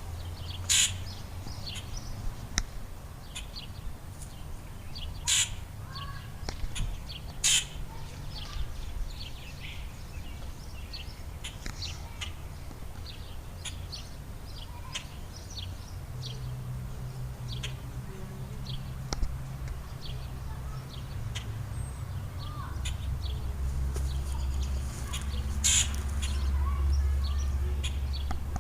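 Wild birds chirping and calling repeatedly, with a few loud sharp calls standing out about a second in, around five and seven seconds in, and again near the end. Underneath runs a low steady rumble that grows louder in the second half.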